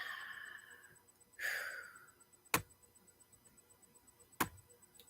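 Two breathy exhales, each fading out within about a second, followed by two sharp clicks nearly two seconds apart.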